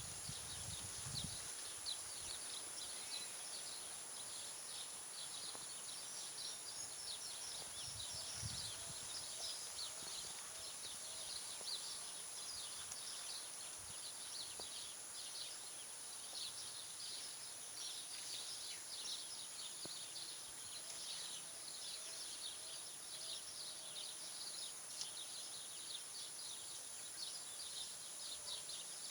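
Nature ambience: many quick bird chirps over a steady high-pitched insect drone, with a short run of soft repeated notes twice and a couple of low thumps near the start.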